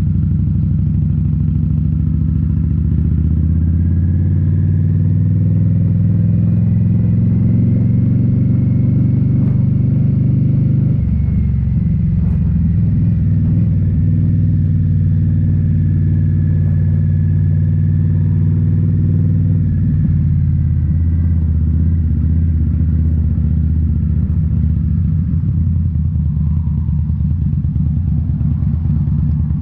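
Indian Scout Bobber's V-twin engine through Rinehart slip-on mufflers, riding under way: the exhaust note climbs in pitch for several seconds, drops suddenly about eleven seconds in as it shifts up, holds steady, then drops again a little past twenty seconds.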